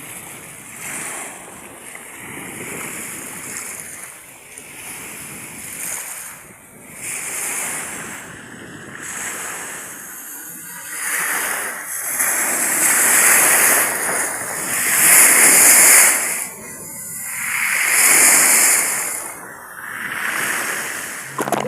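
Sea waves breaking and washing ashore in strong wind at high tide, the surf swelling and fading every two to three seconds and growing louder about halfway through.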